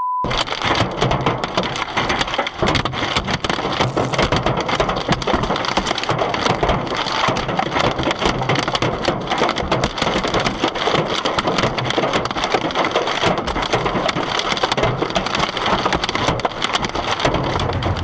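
Hailstones hitting a car's body and glass: a dense, unbroken rattle of hard impacts.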